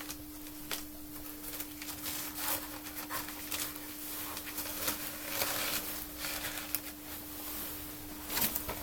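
Fire crackling in a freshly lit wood-burning stove, with irregular snaps and pops over a rushing noise as the oil-soaked firewood and newspaper catch. A steady hum runs underneath.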